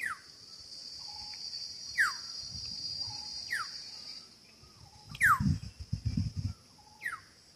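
A bird calling again and again, each call a short note sliding down in pitch, about every one and a half to two seconds. Under it a steady high insect buzz fades out about four seconds in, and a run of low knocks comes near the end.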